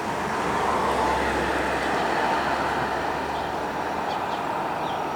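Airbus A320 jet engines running at taxi power: a steady rumble with a whine, swelling a little about a second in and then easing off slightly.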